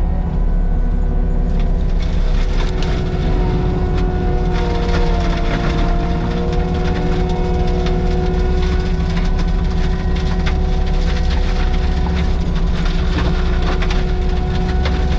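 A heavy Caterpillar diesel machine running steadily under load, with a constant whine that dips slightly in pitch midway. Frequent sharp cracks and snaps sound over it.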